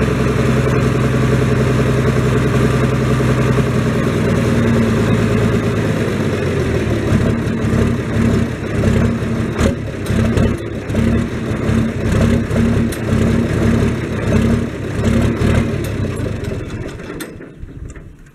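An engine running steadily with a low, even hum, which changes after about four seconds into a rhythmic pulsing, about one and a half beats a second. It fades out near the end.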